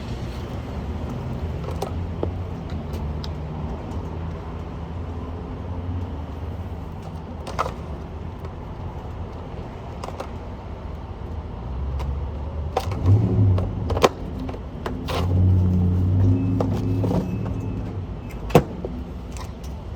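A motor vehicle's engine hums low and steadily, swelling louder for a few seconds in the second half. Several sharp clicks and knocks sound over it.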